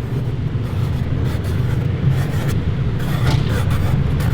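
A car engine idling steadily: a constant low rumble.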